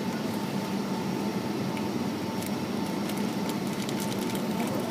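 Steady hum of an airliner cabin, with a constant faint high-pitched whine over it.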